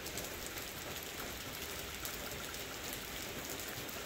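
Heavy rain falling steadily on the street and the building, an even rushing hiss with scattered drop ticks.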